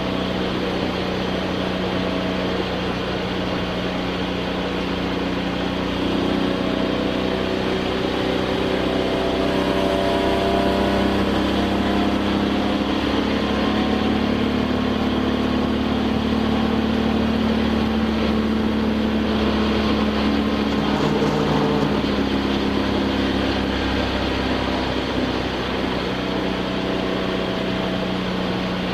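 Touring car engine running gently at low speed, heard from inside the cockpit, its pitch drifting slowly up and easing back down as the car cruises off the track after the race has ended.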